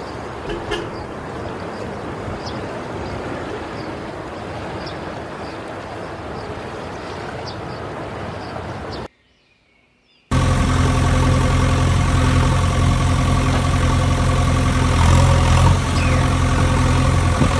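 A steady, even background hiss with faint, regularly spaced ticks, then a brief silence about nine seconds in, after which a much louder engine starts idling steadily with an even low hum.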